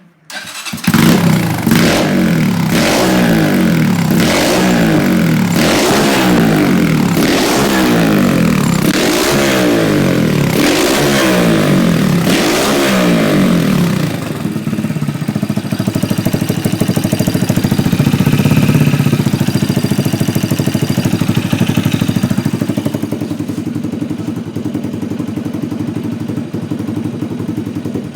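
A 2000 Honda FTR223's single-cylinder four-stroke engine catches about a second in and is blipped repeatedly, rising and falling about every second and a half. After about fourteen seconds it drops to a steady idle.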